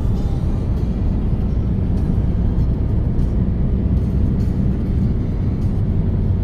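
Steady low rumble of a car driving along the road: road and engine noise.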